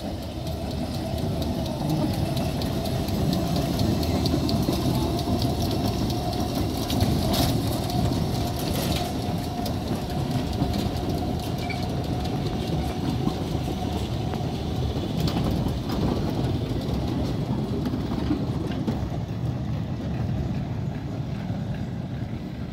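Schynige Platte Railway's vintage electric rack-railway train rolling slowly past, a steady rumble of wheels and gearing with a thin steady hum over the first half. A few sharp clacks from the wheels on the track come about seven to nine seconds in and again around fifteen to sixteen.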